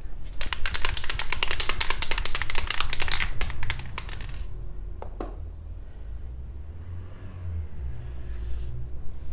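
Aerosol spray-paint can shaken hard, its mixing ball rattling in quick clicks for about four seconds, followed by a couple of single knocks.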